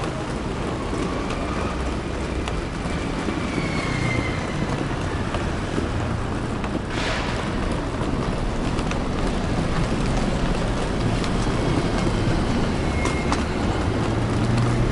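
City street traffic: a steady mix of passing car and vehicle engines and tyre noise, with a short burst of noise about seven seconds in.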